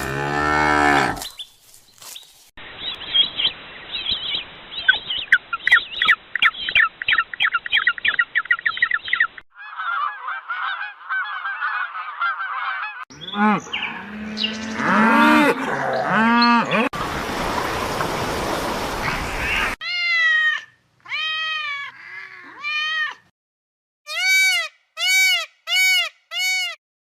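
A string of different animal calls cut one after another: a short call, a long stretch of fast chattering, several honking calls, a few seconds of dense rushing noise, then five short repeated calls near the end.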